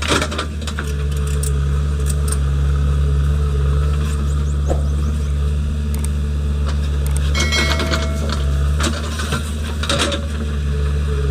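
Heavy diesel engine of a JCB 3DX backhoe loader running steadily under work, with intermittent metal clanks and knocks from the bucket and linkage. A brief squeal comes about two-thirds of the way through.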